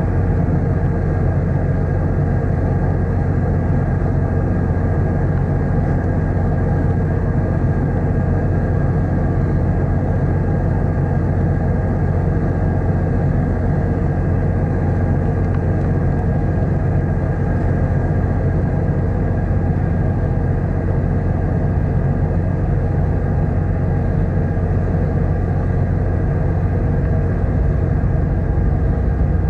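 Car ferry's diesel engines heard aboard: a steady low drone with a thin steady whine above it, unchanging throughout.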